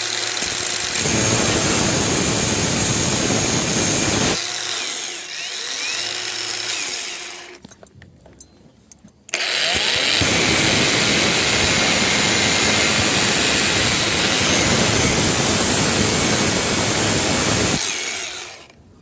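Angle grinder grinding away one side of the steel locking nut that holds a jammed disc, to free it. It grinds for about three seconds, then the motor winds down with a falling whine, and after a short quiet gap a second, longer grind of about eight seconds stops shortly before the end.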